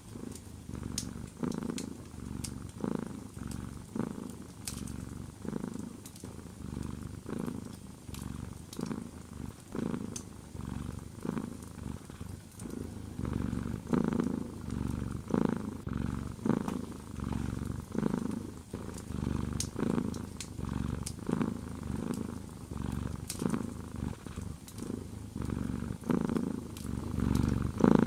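Close-up domestic cat purring, a low rumble that swells and fades about once a second with its breathing. Scattered faint sharp clicks, like crackles from a wood fire, sound over it.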